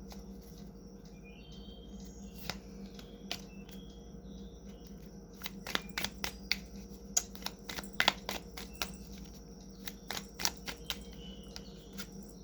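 Tarot cards being shuffled and handled: a run of sharp clicks and snaps, thickest in the middle. A faint bird chirp is heard about a second and a half in, over a steady low hum.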